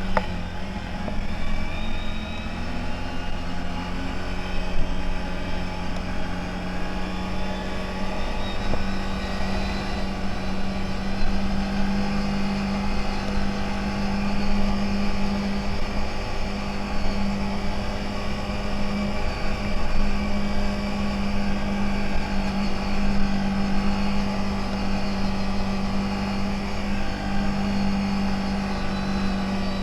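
CFMoto 1000 off-road vehicle's engine running steadily, one constant drone.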